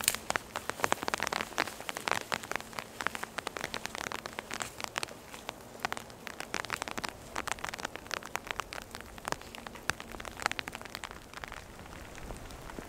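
Rain falling in a forest: a steady hiss with many close, irregular raindrop taps.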